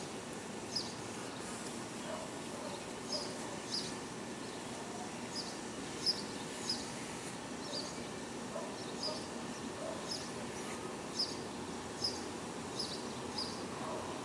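Steady outdoor background noise with a small bird's short, high chirps repeating irregularly, about once a second.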